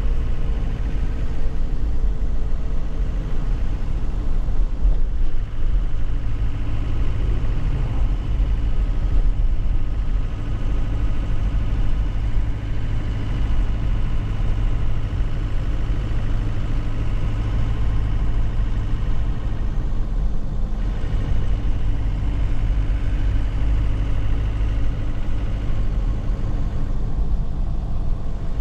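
Nissan Cabstar light truck's diesel engine running steadily, heard from inside the cab, with a low rumble throughout.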